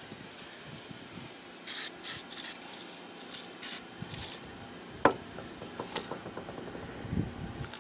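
Small parts being handled on a workbench: two groups of short, high-pitched scuffing strokes, then a single sharp click about five seconds in and a few light knocks near the end.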